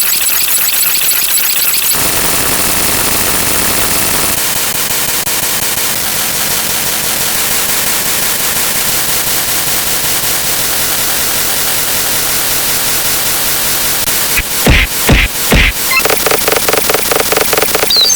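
Loud, harsh static-like noise, held steady, with a handful of sudden loud bangs near the end.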